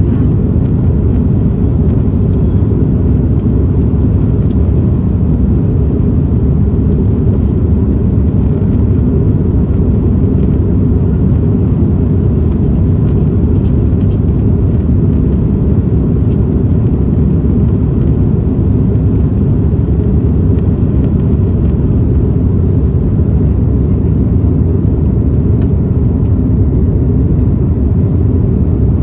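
Steady, loud low rumble of an Airbus A330-300 cabin, made by its Rolls-Royce Trent 700 engines and airflow, heard from a passenger seat.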